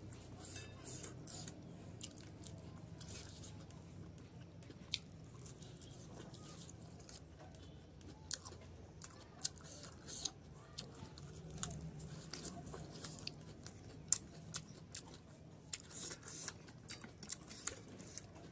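Close-up chewing and mouth smacking of a person eating rice and boiled pork fat by hand, with frequent sharp wet clicks, several a second at times.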